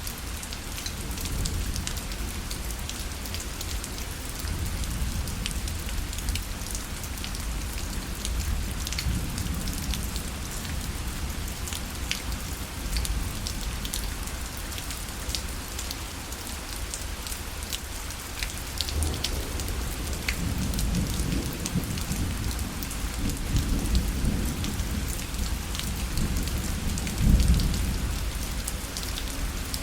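Rain falling on a parasol, a steady hiss with scattered individual drops tapping on the canopy. A low rumble swells in the second half and peaks shortly before the end.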